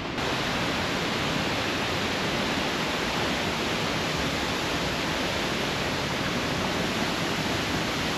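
Whangarei Falls waterfall: a steady rush of falling water that gets a little louder just after the start, then holds even.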